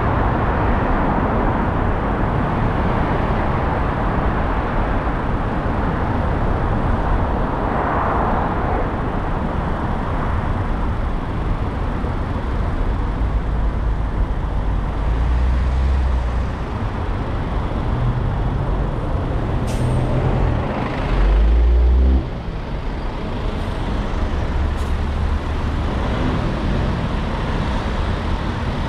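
Steady road traffic noise heard from a car driving through city streets: tyre and engine rumble, with heavier vehicles around. A louder low rumble lasts about a second, some 21 seconds in.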